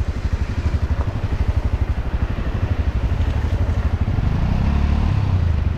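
Off-road motorcycle engine running at low revs with an even pulsing beat, picking up a little from about four seconds in.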